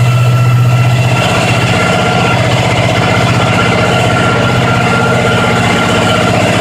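Supercharged hot-rod engine in a 1936 International pickup, breathing through headers and idling steadily on its first start-up.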